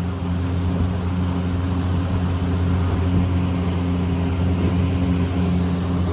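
A steady low hum of a running motor, even throughout with no starts or stops.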